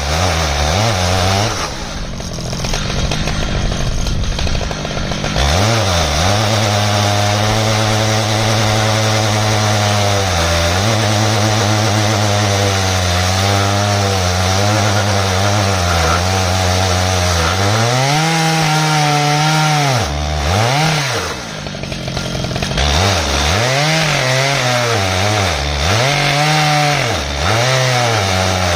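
Stihl MS 881 two-stroke chainsaw running hard while ripping an ash log in an Alaskan chainsaw mill. Its engine pitch sags and recovers several times as the chain loads up in the cut.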